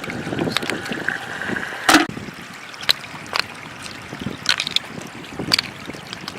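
Shallow floodwater flowing and trickling, with several short sharp splashes or knocks, the loudest about two seconds in.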